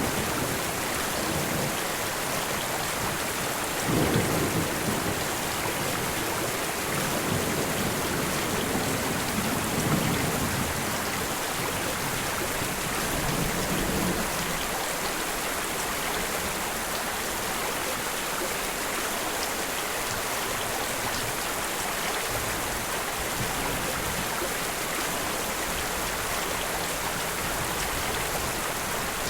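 Steady rain, with low rumbles of thunder swelling a few times in the first half, then rain alone.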